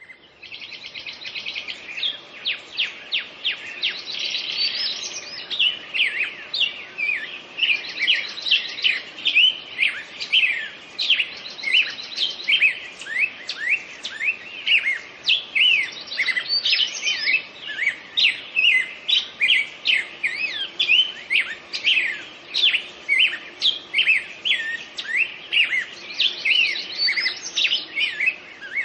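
Birdsong: a dense, unbroken run of short, high chirps and quick whistled glides, with rapid trills now and then.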